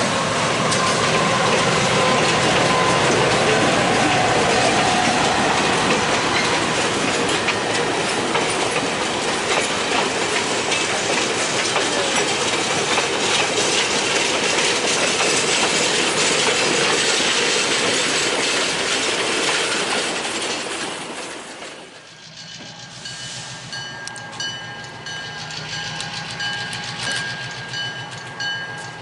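Excursion train running on the rails, loud and steady, then dropping away sharply a little over 20 seconds in to a much quieter background with a few faint steady tones.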